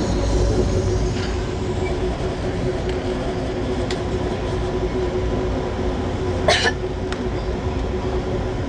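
Steady low rumble of an Amtrak Amfleet I passenger coach running along the rails, heard from inside the car, with a steady hum under it. A single brief sharp knock about six and a half seconds in.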